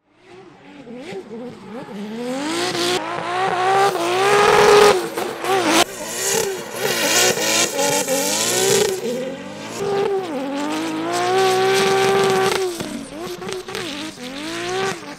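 Drift car engines revving hard, the pitch swinging up and down with the throttle, over the hiss of spinning, smoking rear tyres. The sound fades in from silence at the start and changes abruptly a few times.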